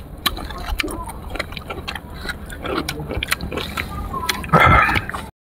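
Close-miked eating of sour fruit: chewing with scattered crisp clicks and wet mouth smacks. Short murmured vocal sounds come in between, and a louder brief vocal sound comes near the end.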